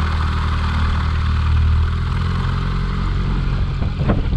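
Honda Shadow 750 V-twin engine idling steadily close by, mixed with a small propeller airplane's engine running at the airstrip. Gusts of wind buffet the microphone near the end.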